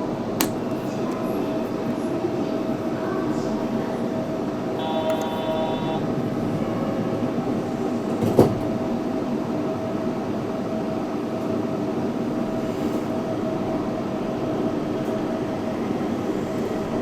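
Yurikamome 7300-series rubber-tyred automated guideway train running at speed: a steady rumble with a constant tone over it. A brief ringing tone comes about five seconds in, and a single sharp knock about eight seconds in.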